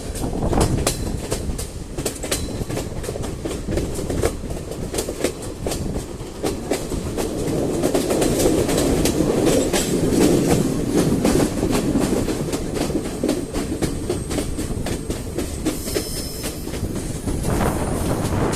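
Train running along the track: a steady low rumble with the wheels clicking over rail joints again and again.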